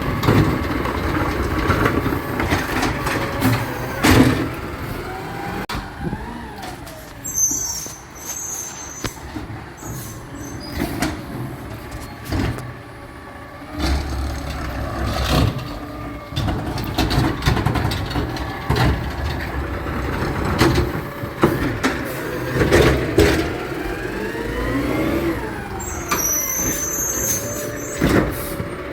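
Garbage truck working: its engine running with pitch rising and falling, sharp knocks and bangs, and short air-brake hisses about seven seconds in and again near the end.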